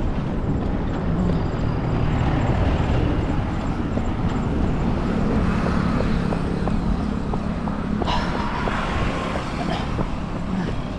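Roadside traffic: motor vehicles passing, with a low rumble and an engine hum that is strongest in the middle seconds.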